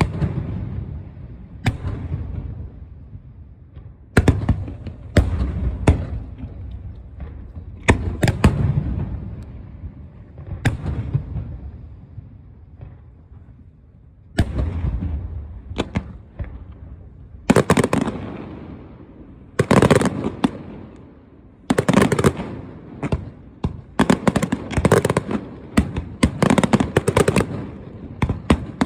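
Fireworks display: aerial shells bursting, each sharp bang followed by a rolling echo. About halfway through the bursts come faster and overlap, with crackling between the bangs.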